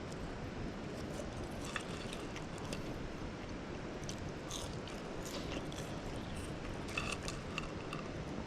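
Crispy homemade french fries being bitten and chewed, a few irregular crisp crunches over a steady low outdoor background rumble.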